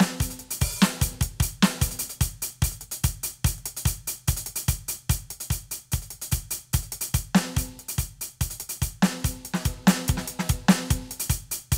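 Roland TD-17 module's drum-kit sounds played on the TD-17KVX electronic kit: a steady, busy groove of bass drum, snare, hi-hat and cymbals, with a ringing, pitched drum note coming back every so often.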